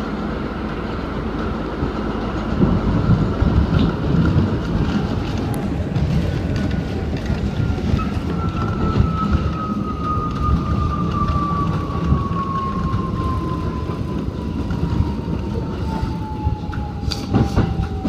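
R68 subway car running on the track: a steady low rumble with some clatter, a few sharp knocks near the end, and a thin whine that falls slowly and steadily in pitch from about six seconds in.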